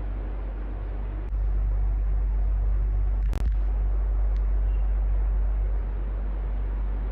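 Electric fan running steadily: a constant whoosh of moving air with a deep rumble underneath. About a second in it clicks and gets louder. Around halfway there is a sharp click with a split-second dropout, and it eases slightly softer near the end.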